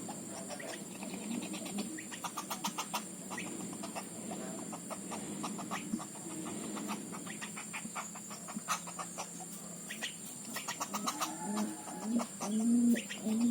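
Woodpecker nestlings begging with rapid trains of dry ticking calls. Near the end a dove coos several times.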